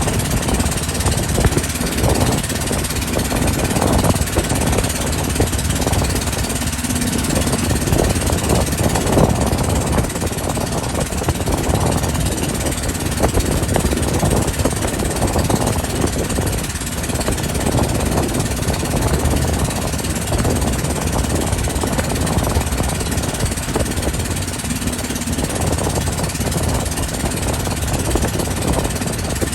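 Motorboat engine running steadily under a loud, even rush of noise.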